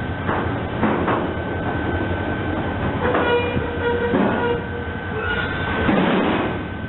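Train passing on the rails, its wheels clattering and knocking over the track, with a brief pitched tone about halfway through.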